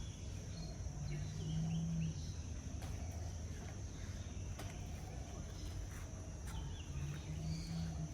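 Outdoor ambience of a steady high-pitched insect drone with faint bird chirps. A low hum comes in twice, about a second in and again near the end, each lasting about a second.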